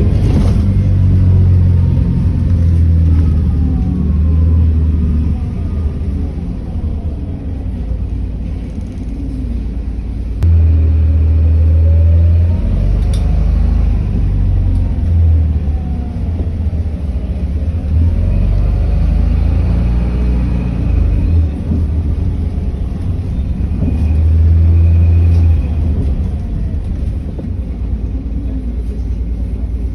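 City bus under way, heard from inside: a steady low engine rumble with a whine that rises and falls several times as the bus speeds up and slows down.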